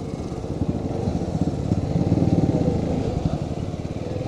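Small two-wheeler engine running steadily, with a fast even putter of firing pulses.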